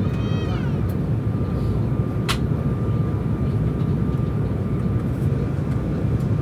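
Steady cabin noise of an Embraer 195 airliner in flight, a deep even rush with a thin steady whine on top. A short high cry near the start and a sharp click about two seconds in.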